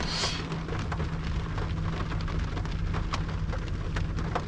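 Rain pattering on the roof and windscreen of a car, heard from inside the cabin as a steady hiss with scattered drop ticks, over a steady low hum.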